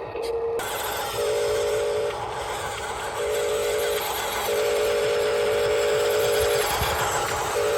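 An RC construction machine's electric motor whining at a steady pitch in on-off spurts as the controls are worked, over a steady hiss.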